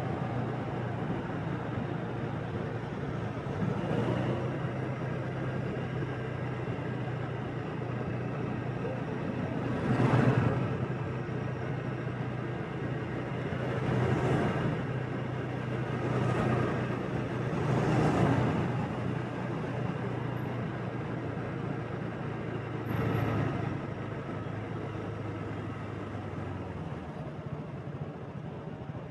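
Motorbike ride through city traffic: a steady low engine hum, with other vehicles swelling past about six times, the loudest about a third of the way in and again past halfway. Near the end the low engine hum drops away.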